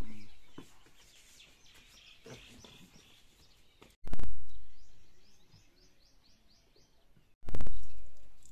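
A bird singing runs of quick high chirps, twice, over quiet open-air background. Three loud low thumps, one at the start, one about four seconds in and one near the end, each fading away over about a second.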